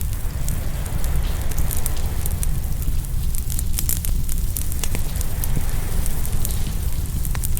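Open wood fire crackling, with frequent sharp pops over a steady low rumble. Ocean waves wash in the background.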